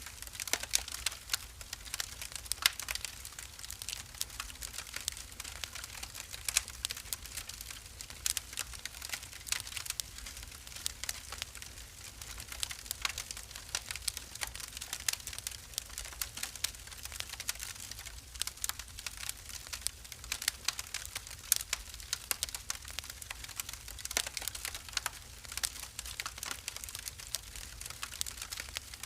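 Wood fire burning in a fireplace, crackling with dense, irregular sharp pops and snaps over a faint low rumble.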